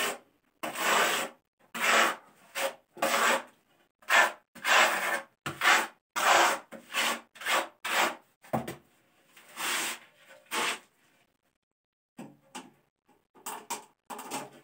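A dozen or so short scraping strokes, about one a second, stop about eleven seconds in, followed by a few light clicks near the end.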